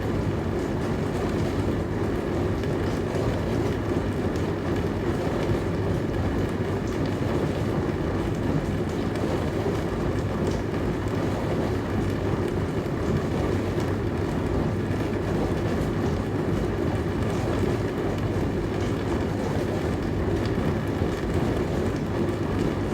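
Dishwasher running mid-cycle: a steady, even rush of water washing inside the machine over its motor, with no change in level.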